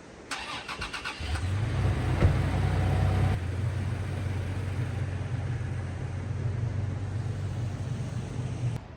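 Toyota Tacoma's engine being started: the starter cranks for about a second, the engine catches and revs up briefly, then drops to a steady idle. The sound cuts off abruptly just before the end.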